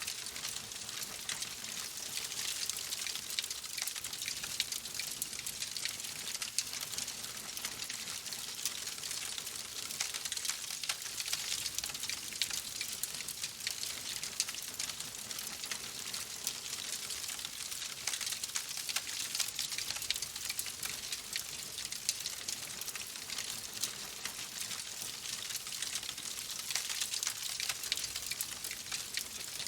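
Wood fire burning in a fireplace: a steady hiss with a dense scatter of small sharp crackles and pops.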